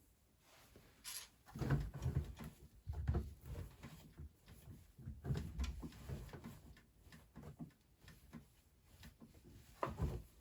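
Beko WMD 46160 washing machine drum turning, with irregular soft thuds and knocks as the laundry tumbles.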